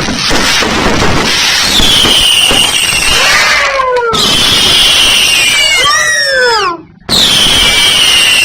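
Fireworks going off: a dense crackling hiss with several whistling tones that fall in pitch. The sound cuts out abruptly twice, briefly, at about four and seven seconds.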